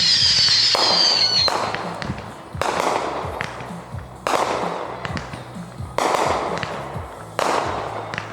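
Fireworks: a whistling shell's whistle falling slowly in pitch, then a run of sharp bangs about every one and a half seconds, each fading out after the burst.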